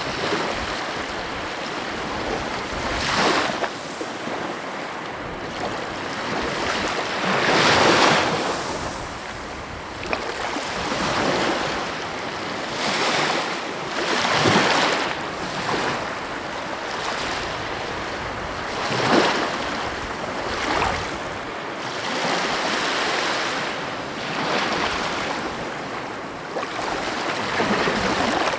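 Sea waves breaking and washing in, surges of surf every few seconds over a continuous wash, with some wind noise on the microphone.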